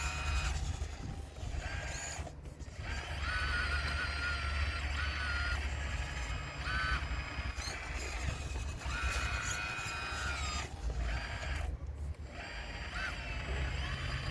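Model RC excavator working, its hydraulic pump and motors whining in repeated spells that start and stop as the controls are moved, over a steady low hum.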